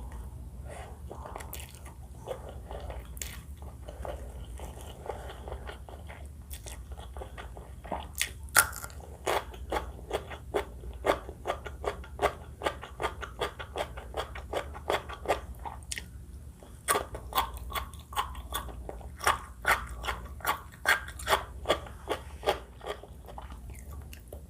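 A person chewing crispy fried chili close to the microphone: soft chewing at first, then quick sharp crunches, about three or four a second, from about eight seconds in, with a short break in the middle.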